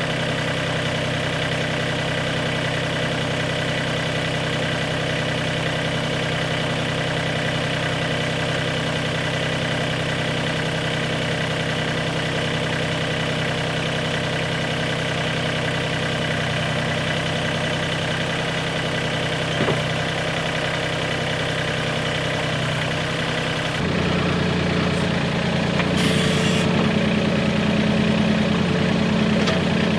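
Mahindra 1626 compact tractor's 26 hp diesel engine running steadily; about 24 s in its note changes and it runs a little louder, with a brief hiss a couple of seconds later.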